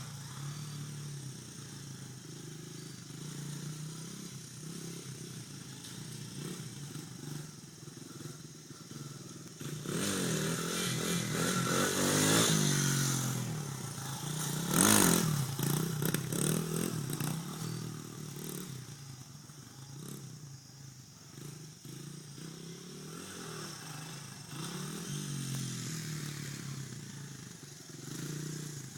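Dirt bike engine revving up and down as it is ridden. It grows louder from about ten seconds in, is loudest as it passes close about fifteen seconds in, then fades back.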